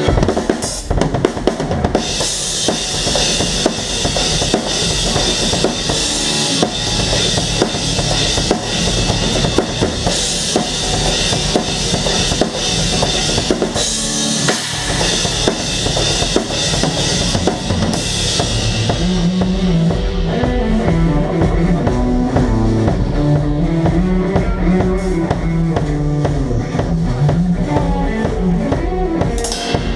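Rock band playing live with the drum kit loud in the mix: steady kick and snare strokes under a bright wash of cymbals. About two-thirds of the way in the cymbals drop back and a low melodic line comes forward over the drums.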